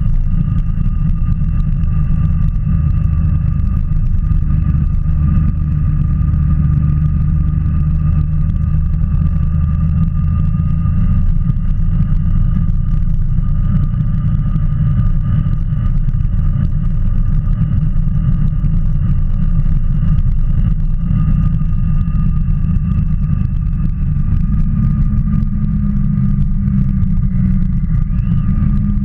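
Motorcycle running steadily on the open road: a continuous low rumble of engine and riding noise, the engine note shifting a little now and then with the throttle.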